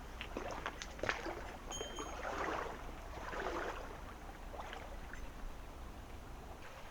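Water of a small mountain stream running and splashing, with several swelling splashes about a second apart and a few light knocks near the start.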